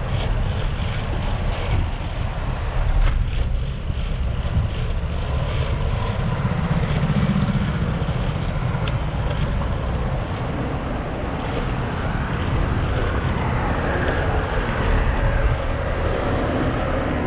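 Wind buffeting the microphone and the rumble and rattle of a rental bicycle being ridden along a paved path, with a few brief clicks and knocks.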